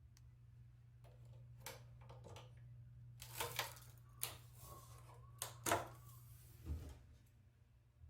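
A few faint knocks and scraping handling noises, clustered in the middle, over a steady low hum.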